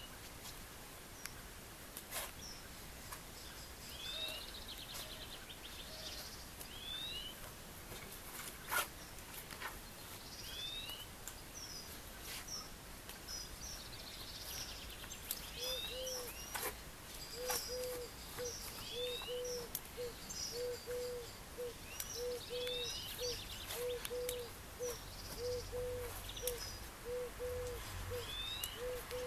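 Outdoor birdsong: short, repeated chirps throughout, joined from about halfway in by a low call repeated steadily at one pitch. A few sharp clicks stand out early on.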